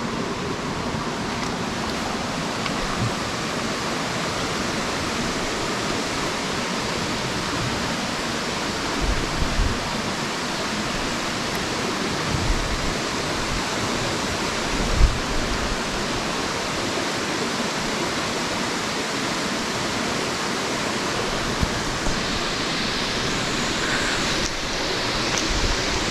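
Steady outdoor rushing noise with a few soft low thumps, and a slightly brighter hiss near the end.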